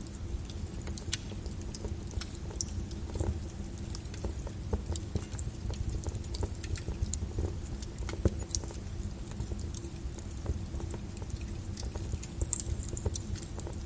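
Wood fire in a fireplace crackling: irregular sharp pops and snaps over a steady low rumble, with one louder snap a little past the middle.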